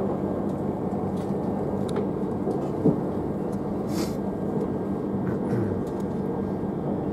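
Steady running rumble inside a moving passenger train carriage, with a faint steady hum. There is a single sharp knock about three seconds in and a brief hiss a second later.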